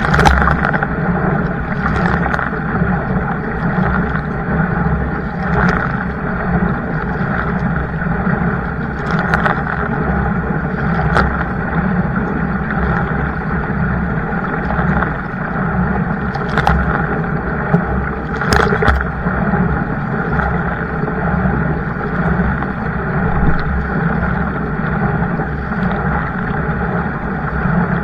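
Steady rush of water and wind noise from a kayak out on the water, broken by a few short knocks or splashes.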